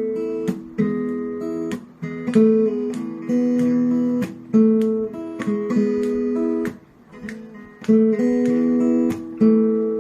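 Solo acoustic guitar strumming chords as a song intro, each chord ringing before the next strum, with no singing.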